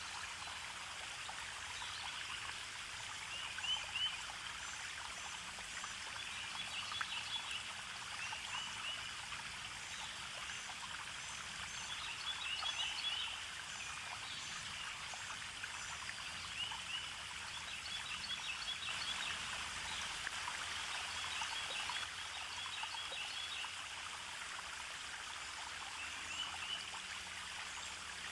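A forest stream running steadily, with small birds singing short, quick trills over it every few seconds.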